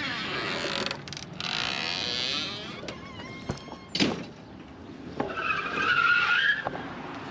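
Car tyres squealing in a skid, with a sharp knock about four seconds in and another wavering squeal near the end.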